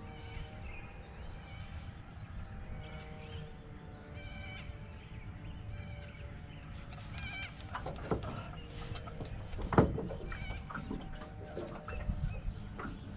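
Birds calling in short, pitched phrases, over a steady low rumble. A few sharp knocks in the aluminium boat, the loudest about ten seconds in.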